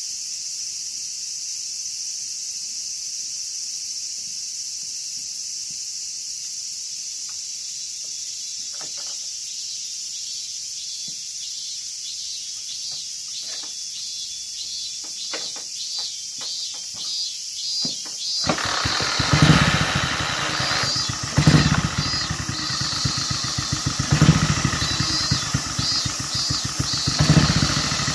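Kawasaki 250 Meguro SG single-cylinder four-stroke motorcycle engine being started: a run of scattered mechanical knocks, then the engine catches about two-thirds of the way in and runs, revved up briefly about four times. A steady high drone of summer insects goes on throughout.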